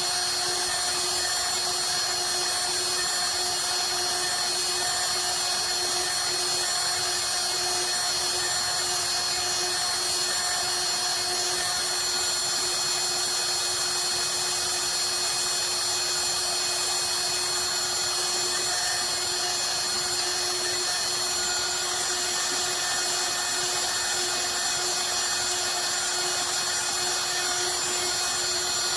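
Bob's CNC router spindle running steadily as its bit engraves a design into a wooden picture frame: a constant pitched hum over an even hiss, with no change in pitch or level.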